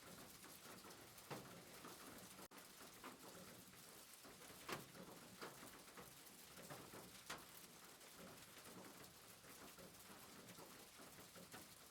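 Faint soft rain: a steady hiss with scattered pattering drops, a few ticks standing out louder.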